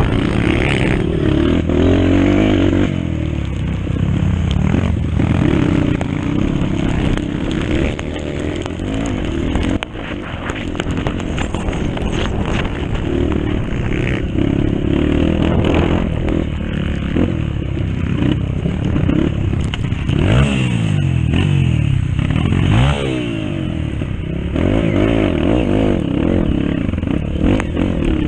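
Dirt bike engine racing on a motocross track, the revs repeatedly climbing and dropping as it accelerates and shifts, with rattling and scraping noise throughout.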